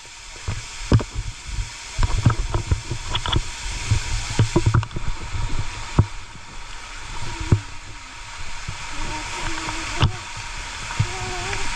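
Water splashing and gurgling, with irregular low thumps and knocks throughout and a faint wavering voice-like tone in the second half.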